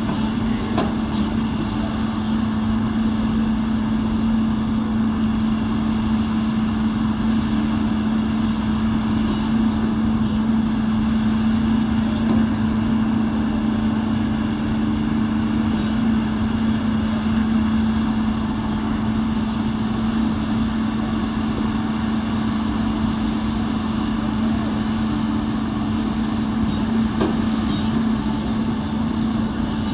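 Komatsu backhoe loader's diesel engine running steadily with a constant hum, a couple of faint clicks over it.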